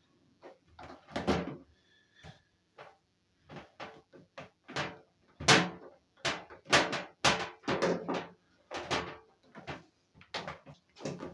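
Irregular run of knocks and clunks as a washing machine and its fittings are handled during installation, about two a second and loudest about five and a half seconds in.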